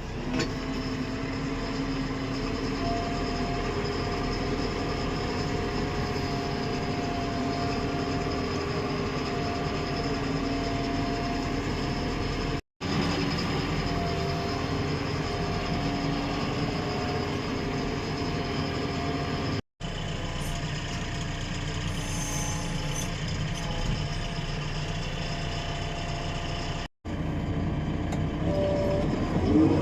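JCB backhoe loader's diesel engine running steadily, with several steady whining tones over the engine noise. The sound breaks off abruptly three times for a moment.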